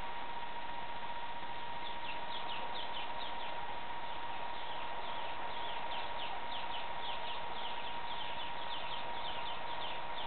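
A bird calling in rapid runs of short, falling chirps, starting about two seconds in, over a steady hiss and a thin steady whine.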